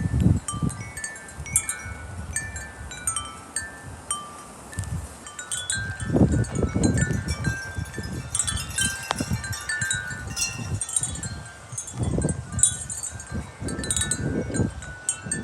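Metal wind chimes ringing steadily in gusty wind, many overlapping tones struck one after another. Wind buffets the microphone as a low rumble with each gust, strongest about six seconds in and again near the end.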